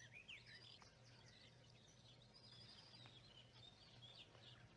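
Faint birdsong: many short chirps and quick twittering calls, over a low steady hum.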